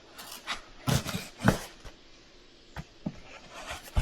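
A box being opened and handled by hand: irregular rustles and knocks, the loudest about one and a half seconds in.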